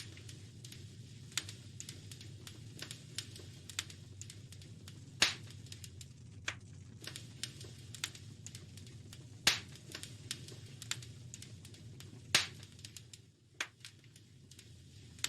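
Wood fire crackling in a fireplace: a steady run of small sharp snaps over a low, even rumble. Three much louder pops stand out, about five, nine and twelve seconds in.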